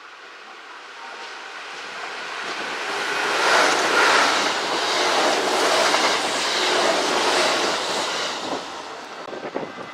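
A Kintetsu electric train running through the station, building up over about three seconds, loudest for a few seconds as it goes by, then easing off, with a few sharp wheel clicks near the end.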